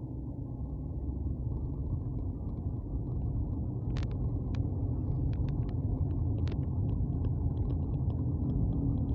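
Steady low rumble of a moving road vehicle, with small sharp clicks scattered through it from about four seconds in.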